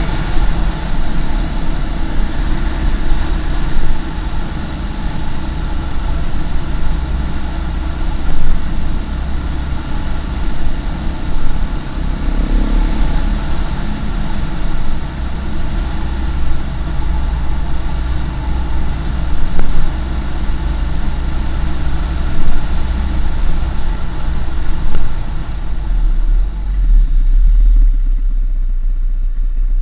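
Husqvarna SM510R supermoto's single-cylinder four-stroke engine running steadily while riding at low speed, over a low rumble. Near the end the engine's higher sound fades and the low rumble takes over as the bike slows.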